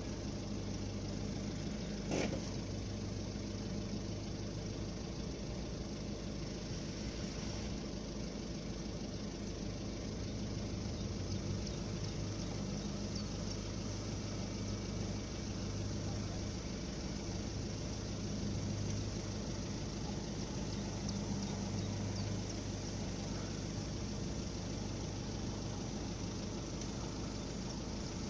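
Car engine idling with a steady low hum, and a single short click about two seconds in.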